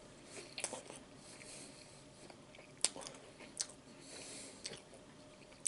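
A person chewing a mouthful of sandwich with the mouth closed: quiet, with a few scattered soft clicks of the mouth.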